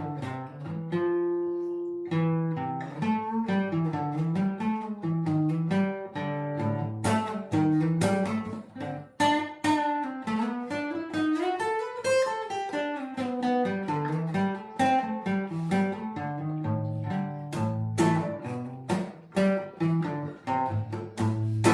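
Acoustic guitar playing continuously, picked notes over a bass line that rises and falls, with a held ringing chord about a second in.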